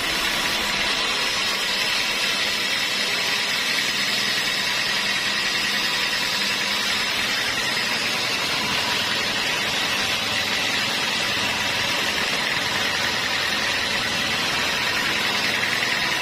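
Sawmill machinery running steadily: a constant, even mechanical drone with a faint steady whine over it.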